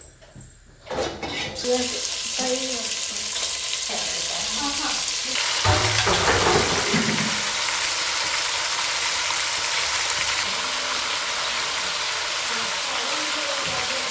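Food frying in hot oil: a steady sizzle that starts about a second and a half in and swells loudest around six seconds in.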